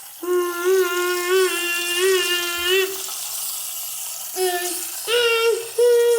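A person's voice holding long, steady sung notes with a slight wobble: one low note for nearly three seconds, then after a pause a few shorter, higher notes near the end.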